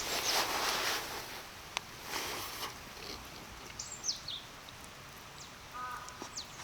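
Forest birds calling: a few quick high falling chirps about four seconds in and a short repeated call near the end, over bursts of rushing noise in the first second and again about two seconds in.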